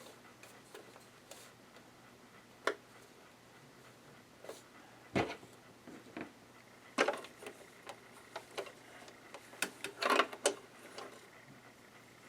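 Irregular light clicks and taps of hands handling a Janome sewing machine while unthreading it, with a faint steady hum underneath.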